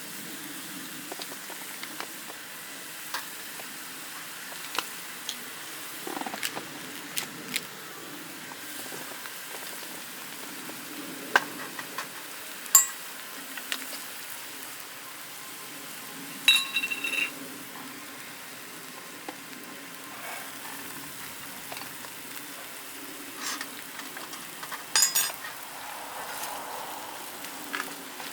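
Food sizzling steadily in a small iron frying pan over a wood fire, with scattered sharp clicks and a few ringing metal clinks, the loudest about halfway through.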